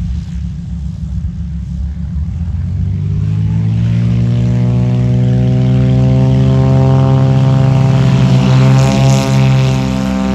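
A Beechcraft T-34 Mentor's propeller engine going to takeoff power: a low rumble that rises in pitch and loudness a few seconds in, then holds steady. The pitch wavers near the end.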